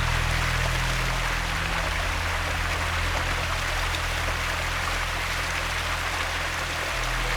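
Steady rush of falling water from a waterfall or stream.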